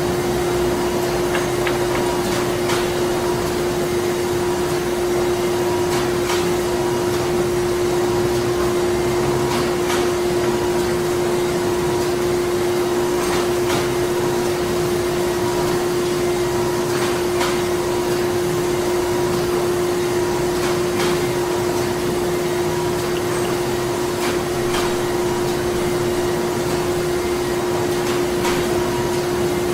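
Printing plant machinery running: a steady mechanical drone with one constant hum tone and faint, irregular clicks every second or few.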